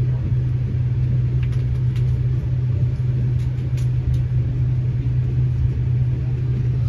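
Steady low drone and rumble of a KTM Class 25 train heard from inside the carriage as it moves slowly along the platform, with a few faint clicks in the middle.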